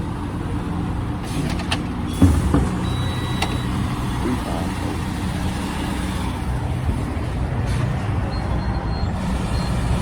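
Truck engines idling with a steady low rumble, with a sharp knock about two seconds in.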